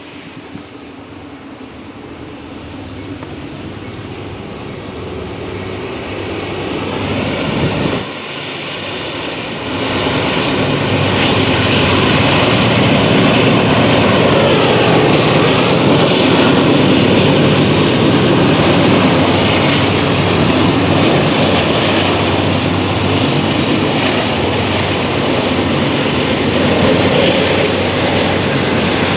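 Freight train's diesel locomotives approaching and passing, their engine drone growing steadily louder, briefly dropping about eight seconds in, then staying loud and steady from about ten seconds in.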